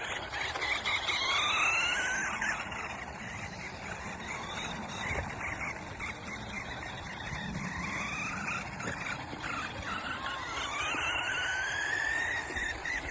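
Radio-controlled car motor whining, rising in pitch as the car speeds up, several times over.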